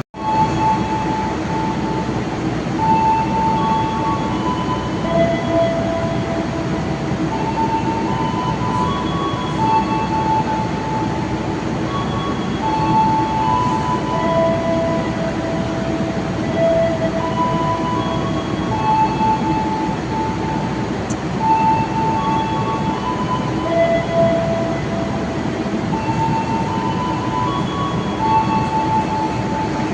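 Steady rumble of a train at the station, with a constant low hum running through it. A slow melody of held notes plays over it, about one note a second.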